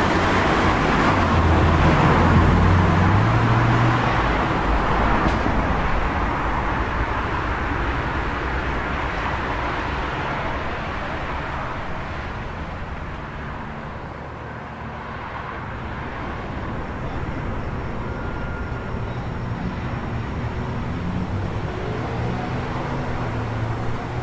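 City street traffic: a vehicle passes close about two seconds in, its engine and tyre noise swelling then slowly fading away, before another vehicle's engine draws closer near the end.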